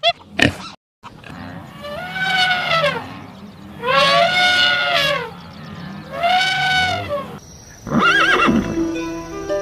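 An animal calling three times, each call long and pitched, rising and then falling, followed near the end by a shorter call that sweeps up and down.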